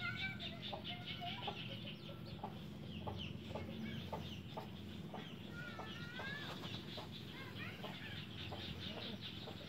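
Birds calling outdoors: a steady run of short chirps and calls with a longer sweeping call about six seconds in, over a low steady hum.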